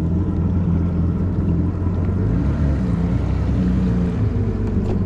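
Jet ski engine of a 2018 Yamaha FX HO running steadily, a low drone whose pitch shifts slightly a couple of times around the middle.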